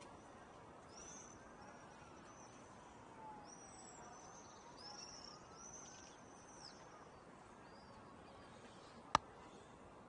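Faint high chirping calls of birds, several short arched notes scattered over the first seven seconds, over a steady background hiss. A single sharp click about nine seconds in.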